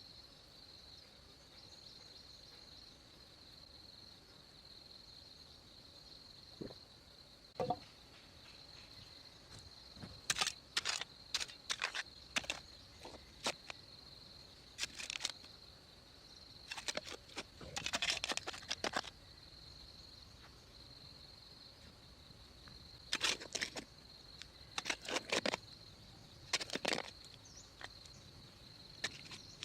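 Insects chirring steadily at one high pitch, with clusters of sharp clicks and knocks about a third of the way in and again past the middle.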